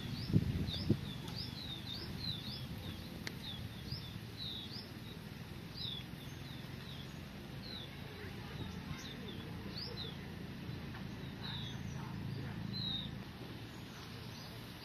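A small bird chirping over and over: short, rising high notes, several a second at first, then more spaced out. A steady low rumble runs underneath.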